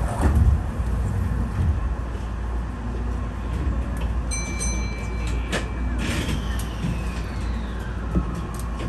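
Keihan electric train standing at an underground station platform, heard from the driver's cab: a steady low rumble of the stationary train, a thump just after the start, a high electronic beep lasting about a second near the middle, and a sound sliding slowly down in pitch over the last few seconds.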